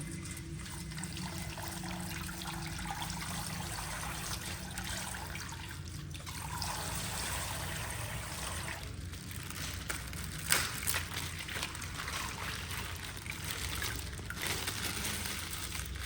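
Coloured water trickling and pouring out of a punctured plastic ice-pack bag, with a brief louder noise about ten and a half seconds in.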